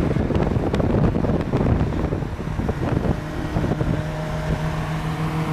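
A vehicle engine running on the move, a steady hum under heavy wind buffeting on the microphone.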